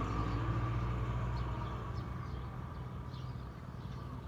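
A motor vehicle engine running with a steady hum and a whine, growing fainter through the second half as it moves away.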